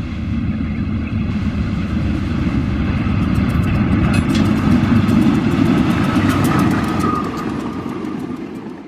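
Diesel locomotive hauling a passenger train past, its engine and rolling noise swelling as it approaches and then fading near the end. A quick run of sharp clicks comes about three to four seconds in.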